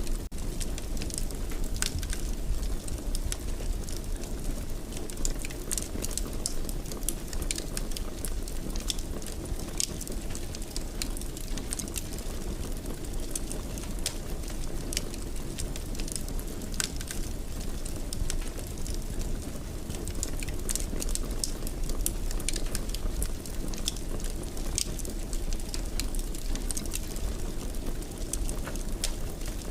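Wood fire crackling in a fireplace: a steady low rush of burning with frequent sharp, irregular pops and snaps.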